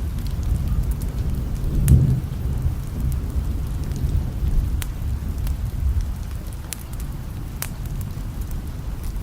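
Thunderstorm ambience: a continuous low rumble of thunder, swelling about two seconds in, under steady rain, with a few scattered sharp ticks.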